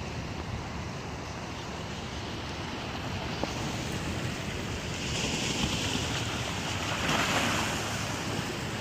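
Lake Michigan waves breaking and washing on the shore, with wind rumbling on the microphone. The surf grows louder about halfway through and peaks near the end before easing.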